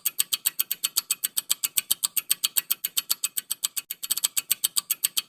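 Fast, even ticking of a quiz countdown-timer sound effect, about seven crisp ticks a second, filling the pause left for the answer.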